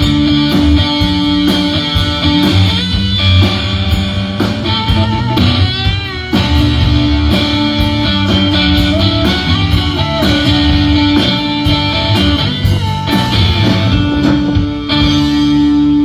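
Live rock band playing an instrumental passage without singing: electric guitar over bass and drums, with a wavering held note about six seconds in.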